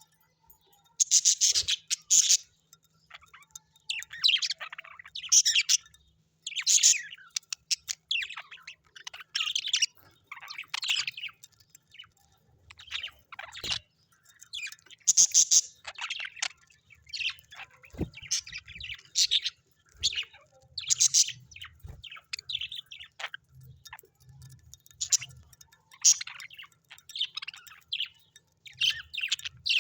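Birds chirping: short, high calls and trills repeating every second or two, several overlapping at times.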